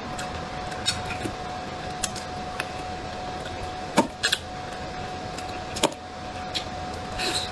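Close-miked chewing of braised pig's trotter: scattered wet smacks and clicks of the mouth. A few sharp ones come about four seconds in and again near the end, over a steady faint background hum.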